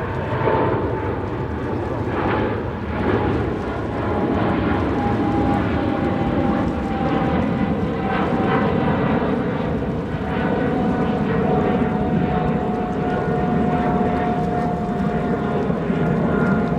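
Jet engines of a large airliner taking off: a loud, steady rumble with an engine whine that slowly falls in pitch.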